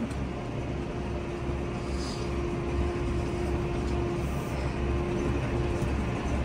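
Farm tractor engine running steadily under load, a continuous low drone with a steady hum.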